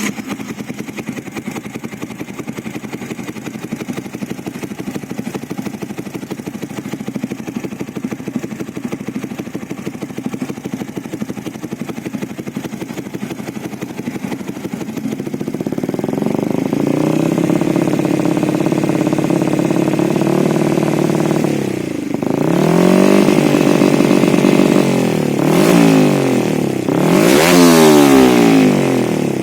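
Bored-up 177cc Yamaha Vixion single-cylinder four-stroke engine running through a DX Generation Sphere Oval aftermarket racing exhaust: idling steadily, then held at a raised speed from about halfway, then revved up and let fall back several times near the end.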